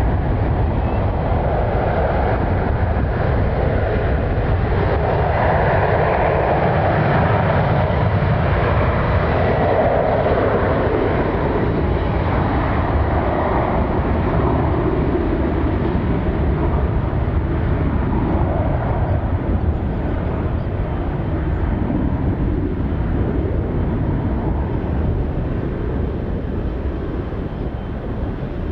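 Boeing 737-900ER's twin CFM56-7B turbofans at takeoff thrust on the departure run, a steady jet rumble that eases off over the last several seconds.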